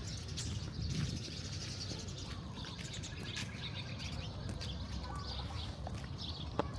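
Small birds chirping, many short repeated chirps, over a steady low background rumble of the street.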